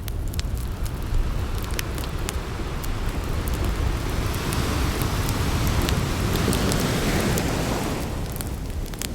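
Campfire burning, with scattered crackles and pops over a steady low rushing sound that swells louder in the middle.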